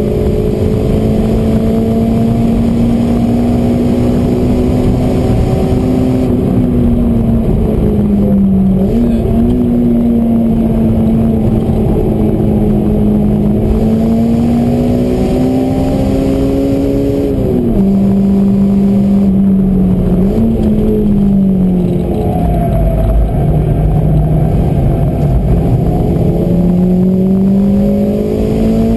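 Honda Integra DC2's four-cylinder engine at high revs, heard from inside the cabin under hard track driving, its pitch climbing slowly and dipping sharply several times, over a steady low road rumble.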